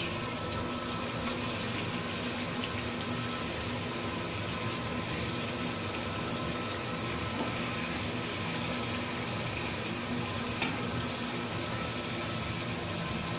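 Amaranth greens sizzling in hot oil in an aluminium kadai, a steady even hiss that hardly changes.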